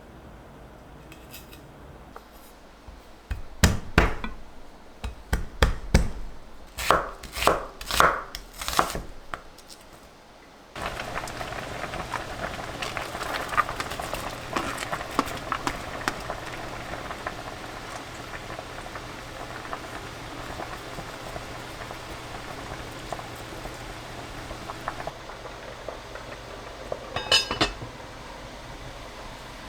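A run of about eight sharp knocks, one every half-second to second, then a steady hiss with a low hum and a single knock near the end.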